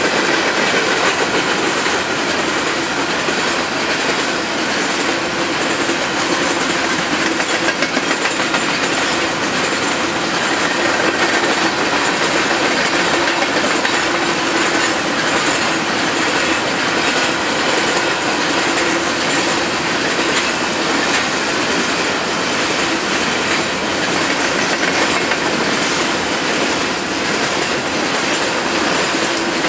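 Empty coal hopper cars of a freight train rolling past close by: a steady, unbroken rumble of steel wheels on the rails.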